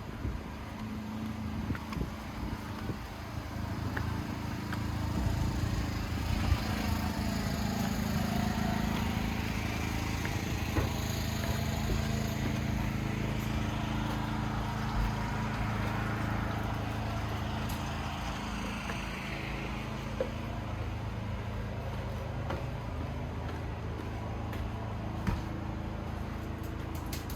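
Motorboat engine running steadily, with a rushing noise over it. It gets louder about five seconds in and eases off a little later on.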